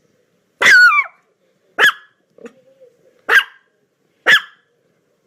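A canine barking: first a longer call that falls and wavers in pitch, then three short, sharp barks about a second apart.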